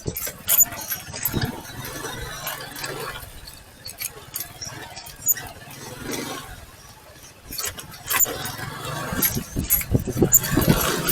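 Motorcycle engine running, with scattered clicks and knocks over it.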